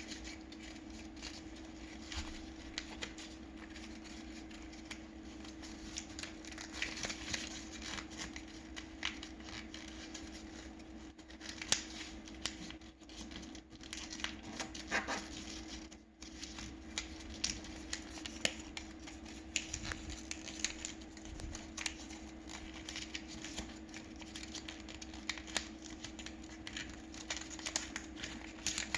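Paper being folded and creased by hand: frequent short crinkles, rustles and clicks as the sheet is worked, over a steady low hum.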